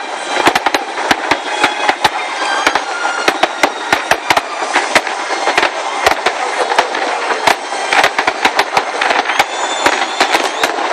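Japanese Nagaoka aerial firework shells bursting in a dense barrage: many sharp bangs a second in an irregular rattle, over a continuous rushing background.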